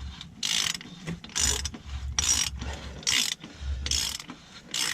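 Large ratchet wrench clicking in short strokes, about one burst a second, as it snugs down the oil filter cap.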